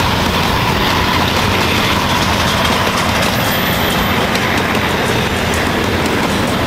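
Freight train rolling past with a loud, steady rumble of wheels on the rails. From about three seconds in there are repeated short knocks, the sound of flat spots worn into the wheels of several wagons.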